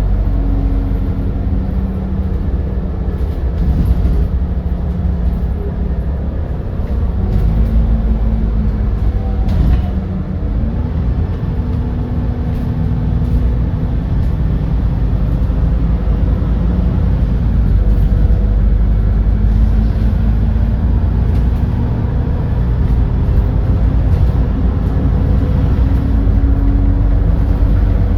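Edison Motors Smart 110G natural-gas city bus's GX12P engine running under way, heard from inside the bus: a steady low drone whose pitch rises and falls a few times as the engine speed changes, most clearly about ten seconds in and again around twenty seconds.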